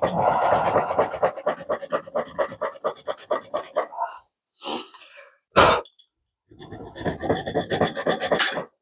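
Hand file rasping rapidly back and forth across metal, smoothing a snipped-off stub flat, in two runs of quick strokes with a pause between them. A single sharp knock comes in the pause, about halfway through.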